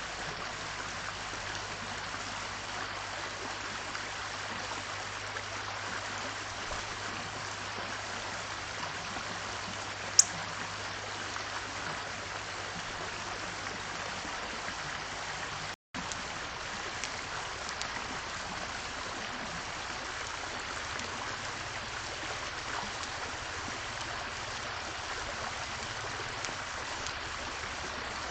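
Steady rushing of running water, even throughout, with one short high chirp about ten seconds in. The sound cuts out for a moment a little past halfway.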